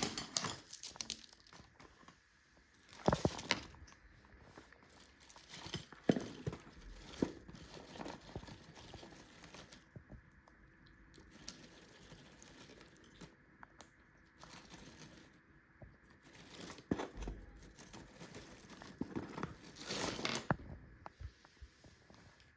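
African grey parrot tearing and chewing at a cardboard-and-paper favour box toy: irregular crinkling, crunching and tearing, with louder bursts of ripping about three seconds in, about six seconds in and near the end.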